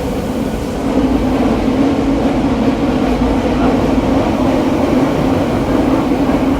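Running noise of a Tokyo Metro 7000-series subway car (Mitsubishi IGBT-VVVF), heard from inside the car: a steady rumble of wheels and motors that gets louder about a second in and holds there.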